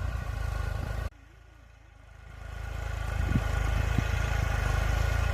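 Tractor engine running with a steady low throb; the sound drops away abruptly about a second in, then rises again and settles into a loud, steady run.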